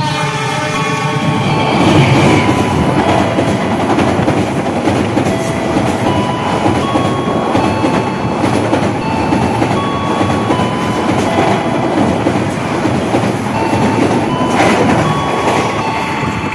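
Passenger train of Indonesian railways (KAI) passing close by at speed: the locomotive goes by first, loudest about two seconds in, then a long run of coaches with a steady rush and clatter of wheels on the rails, easing off as the last coach passes near the end.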